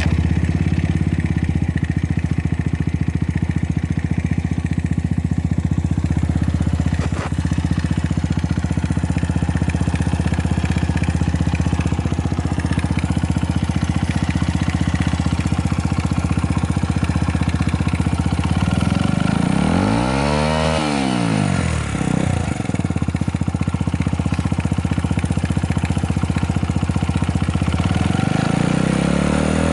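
Honda Ape 50 FI's small single-cylinder four-stroke engine idling steadily just after starting. It is revved once about twenty seconds in, rising and falling back to idle, and rises again near the end. It runs with no abnormal noise.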